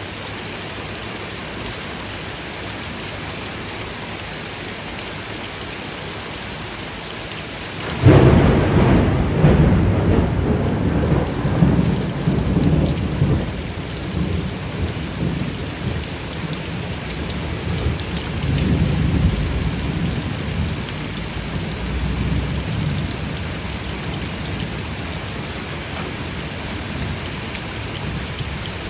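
Steady rain falling, then about eight seconds in a sudden loud clap of thunder that rumbles on and slowly fades, swelling again briefly later, over the continuing rain.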